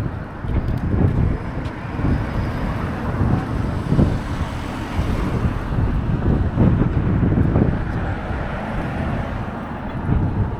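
Road and traffic noise mixed with wind buffeting the microphone: a rumbling haze that swells and dips, with no clear single event.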